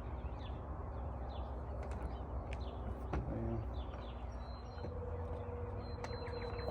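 Small birds chirping repeatedly over a steady low outdoor rumble, with a few light clicks about two and a half and three seconds in. A faint steady hum joins in after about four and a half seconds.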